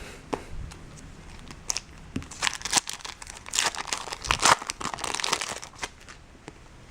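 Foil wrapper of a 2012 Bowman Chrome baseball card pack being torn open and crinkled by hand, in a dense run of irregular crackles and rustles from about a second and a half in, fading near the end.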